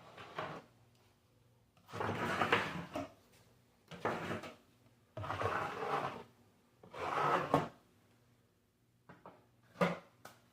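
Drywall taping knife scraping joint compound across drywall in a series of strokes, about four long ones each lasting around a second, then shorter quick scrapes near the end.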